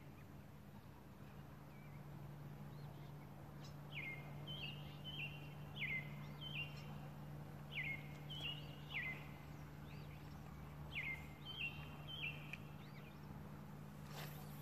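A songbird calling: short downward-slurred chirps repeated in small groups from about four seconds in, over a faint steady low hum. A brief swish near the end as a spinning rod is cast.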